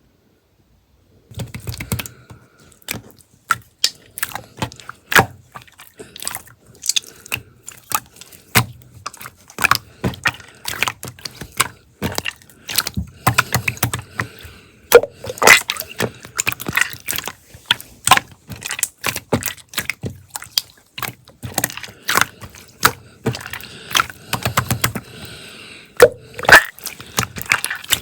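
Slime being squeezed and stretched by hand, making a rapid, irregular run of sticky clicks and pops that starts about a second in.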